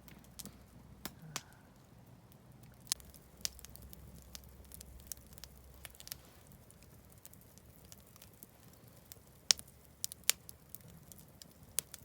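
Wood campfire crackling, with irregular sharp pops; the two loudest come a little under a second apart near the end.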